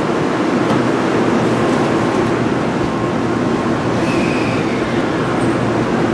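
Steady hum of a stationary Shinkansen N700-series train, its onboard equipment running.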